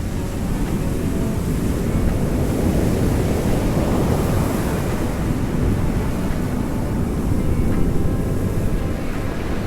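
Sea surf washing onto the shore in a low, rumbling wash, swelling about four seconds in and again near the end.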